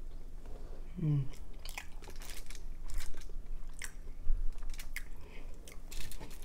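A person chewing a mouthful of boiled egg, with repeated wet mouth clicks and smacks and a brief hum about a second in.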